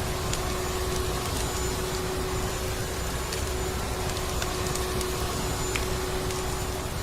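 Vacuum cleaner motor running steadily, a constant rushing noise with a steady hum, mixed with scattered crackles of a wood fire.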